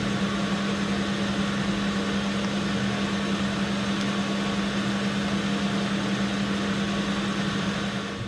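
Metal lathe running steadily with a strong low hum, fading as it winds down near the end.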